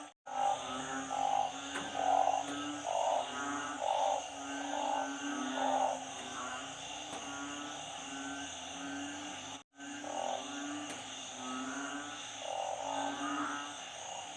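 Chorus of frogs calling in floodwater: narrow-mouthed frogs (อึ่ง) and small frogs (เขียด) give many short, repeated calls, overlapping, over a steady high-pitched trilling. The sound cuts out completely twice, briefly, near the start and about ten seconds in.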